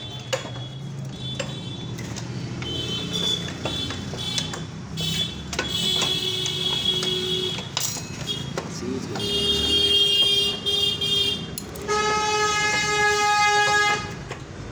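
Vehicle horn sounding several times in long steady blasts, the longest near the end lasting about two seconds, over a low background rumble and scattered sharp clicks.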